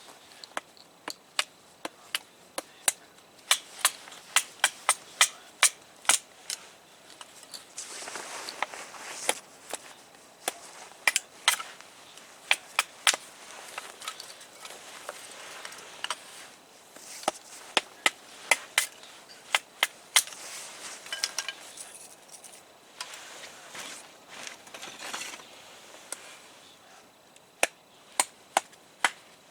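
Wood campfire crackling: irregular sharp pops and snaps, with stretches of soft hiss between them.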